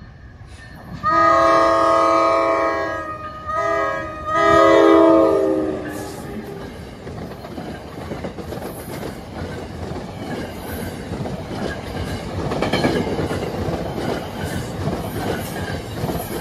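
NJ Transit ALP-46 electric locomotive's horn sounding for a grade crossing: a long blast, a short blast, then a final long blast that drops in pitch as the locomotive passes. The train then rolls past with steady wheel-on-rail noise and rapid clicking over the rail joints, swelling near the end as the cars go by.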